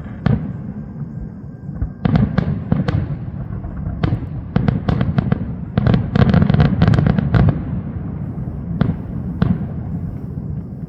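Fireworks finale: a rapid barrage of aerial shell bursts and reports, densest in the middle, thinning to a few single booms near the end, all over a continuous low rumble of echoing explosions.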